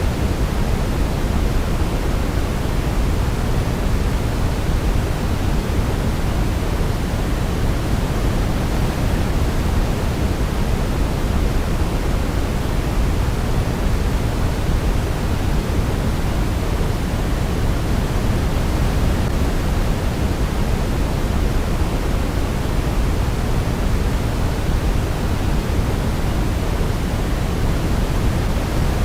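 Steady sleep-aid noise, deep and even, weighted toward the low end like pink noise, with no melody or rhythm.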